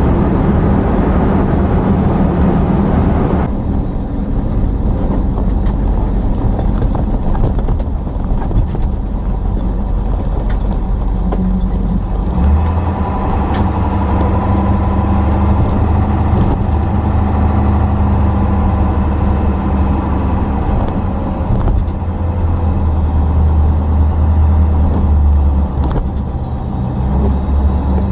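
Truck engine and road noise while driving, a steady low drone whose pitch shifts about twelve seconds in.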